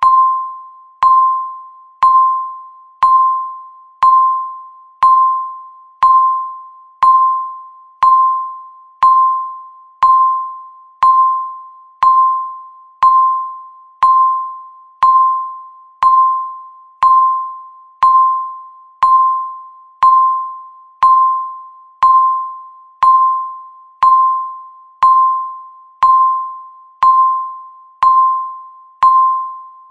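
Countdown timer beeping once a second: a short, clear electronic beep on one pitch that fades quickly, repeating with even spacing.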